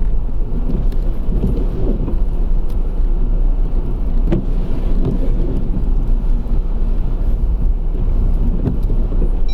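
Car running at low speed, heard from inside the cabin: a steady low engine and road rumble.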